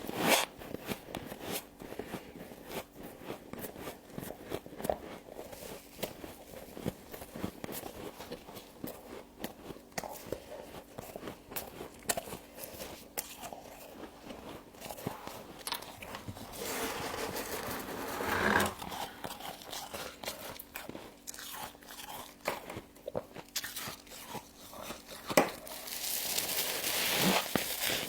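Close-up crunching and chewing of humidifier-grown frost: a run of small crackly bites, with louder, longer crunches about two-thirds of the way in and again near the end.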